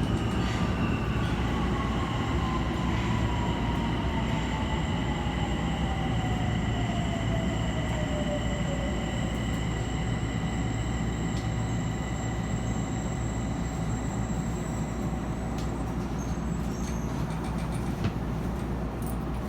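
Yokohama Municipal Subway 4000 series train running, with a steady rumble of wheels on rail. Over the first nine seconds its motor whine falls steadily in pitch as the train slows. A few clicks come near the end.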